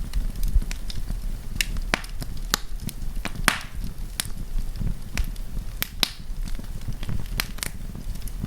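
Wood campfire crackling: irregular sharp pops and snaps from the burning logs over a steady low rumble, with a brief hiss about three and a half seconds in.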